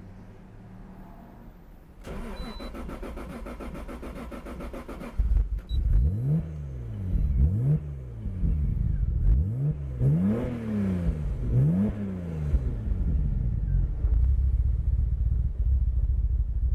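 Toyota Supra RZ's 2JZ-GTE twin-turbo inline-six, with aftermarket turbos and a custom front pipe and muffler, being started. The starter cranks for about three seconds and the engine catches about five seconds in. The throttle is then blipped several times, each rev rising and falling, before the engine settles into a steady idle.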